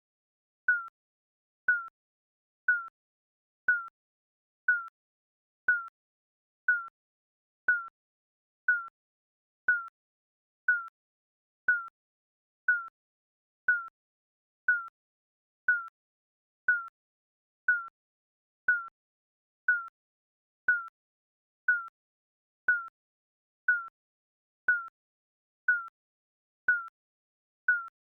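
Digital countdown timer beeping: a short electronic beep once a second, each beep dipping slightly in pitch, with silence between beeps.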